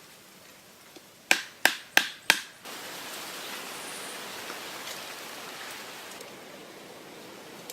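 Four sharp knocks in quick succession, about three a second, then a steady hiss of running or splashing water starts and carries on, easing slightly near the end.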